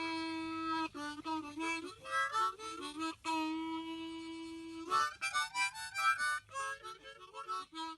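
Harmonica solo in background music, playing held notes and quick runs.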